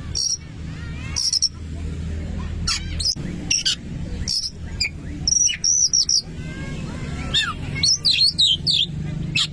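Oriental magpie-robin (kacer) singing: a varied run of loud, sharp whistles and chips, busiest toward the end, over a steady low hum.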